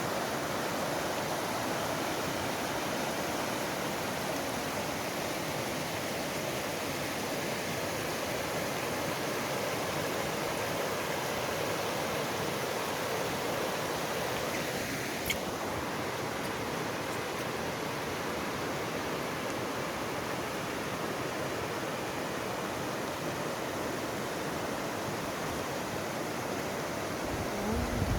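Steady rain falling, an even hiss with no let-up. A single sharp click about halfway through.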